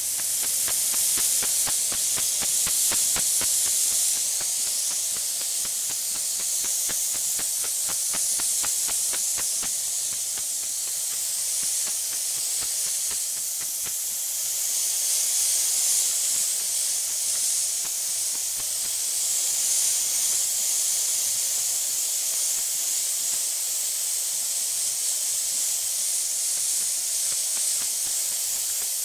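Garden hose pipe running, water rushing out in a steady high hiss that swells and eases slowly, with fine crackling ticks through about the first half.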